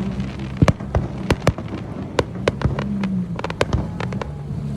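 Jet ski engine running with a low wavering hum, with many sharp, irregular knocks over it.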